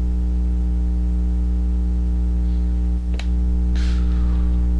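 A steady low hum with a buzzy stack of overtones, unchanging throughout, with a short click a little past three seconds in.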